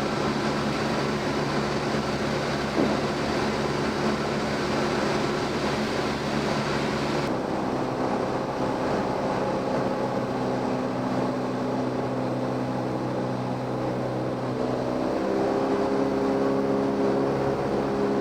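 Cessna 172M's four-cylinder Lycoming O-320 engine and propeller droning steadily inside the cockpit in descent. About seven seconds in the tone abruptly turns duller, and near the end the pitch of the drone shifts.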